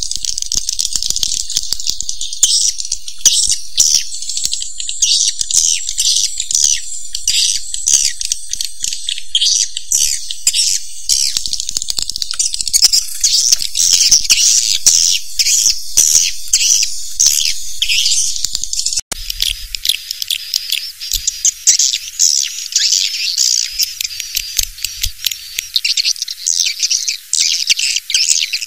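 Dense, high-pitched twittering and clicking chirps of many edible-nest swiftlets, a swiftlet lure call recording. About two-thirds of the way through it cuts abruptly to another section of the same chirping.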